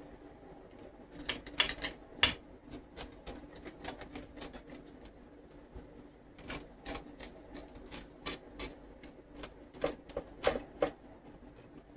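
Kitchen clatter: irregular sharp clicks and taps of utensils and dishes being handled, bunched into quick flurries about two seconds in and again near the end, over a faint steady hum.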